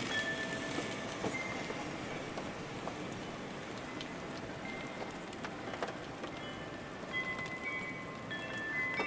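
Steady rain with individual drops ticking. A few ringing chime tones sound near the start and again near the end.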